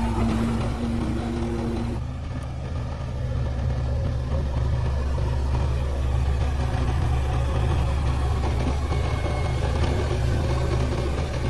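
JCB backhoe loader's diesel engine running steadily at work. A higher steady drone over the engine stops about two seconds in.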